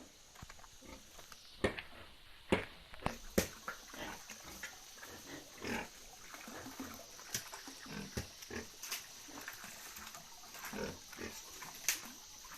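Pigs grunting softly at rest after feeding, scattered short grunts mixed with a few sharp knocks, mostly in the first few seconds.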